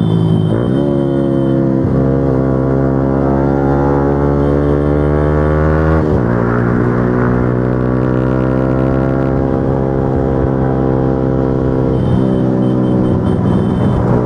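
Motorcycle engine running at a steady highway speed, its revs dipping briefly about half a second in and again about six seconds in.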